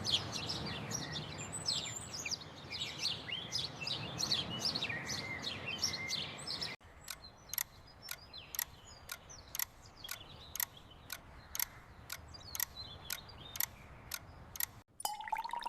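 Birds chirping: a dense chorus of quick, falling chirps over a background hiss, then, after a sudden change about seven seconds in, a single repeated sharp chirp about two or three times a second over a quieter background.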